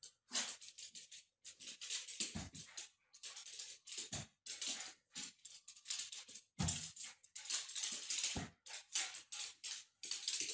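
A small dog playing with a balloon on a tiled floor: a quick run of short scrabbling, hissy noises, with a few dull thumps a second or two apart.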